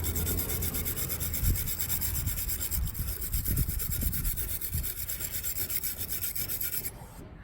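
A wire brush scrubbing paint off a die-cast model car body in rapid back-and-forth strokes, stopping about seven seconds in.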